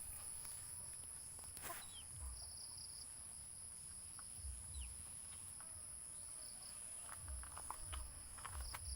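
Crickets or other insects keep up a steady high-pitched drone, with a pulsing trill beneath it. Scattered faint clicks and low thumps sound through it.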